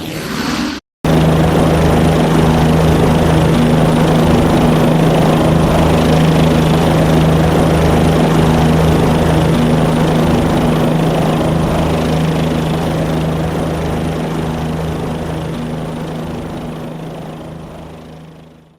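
Helicopter engine and rotor running at a steady speed, a constant low hum with a hiss over it, fading out near the end. About a second in, a brief falling-pitch engine sound cuts off abruptly just before the steady running starts.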